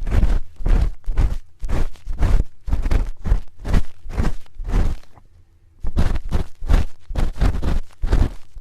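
Spoon scraping and rubbing close against a microphone in ASMR ear cleaning, in steady strokes about two to three a second, each with a deep thud of contact. There is a brief pause a little past halfway.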